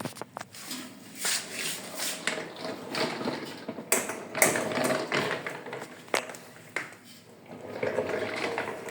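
Handling noise: a string of sharp clicks and knocks, with rustling and swishing in between.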